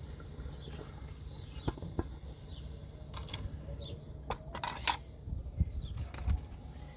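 Scattered light clicks and knocks, a few close together about five seconds in, over a steady low hum.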